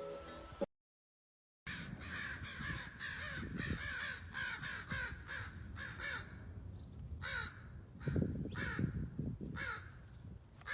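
Crows cawing over and over after a brief silent gap, at first many harsh caws overlapping, then thinning to single caws about a second apart.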